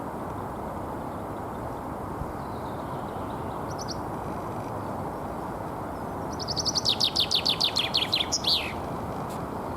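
Common chaffinch singing its spring territorial song: a rapid run of descending notes about two seconds long, ending in a flourish, starting about six and a half seconds in. A brief high chirp sounds about four seconds in, over a steady low background hum.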